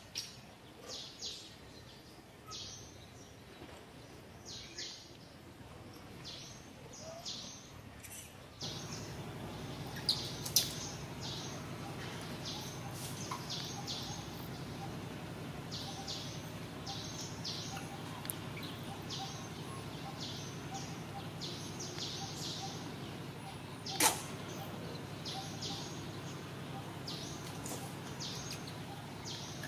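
Small birds chirping in short, repeated high calls over a steady outdoor background hum, which gets louder about a third of the way through. A couple of sharp clicks stand out.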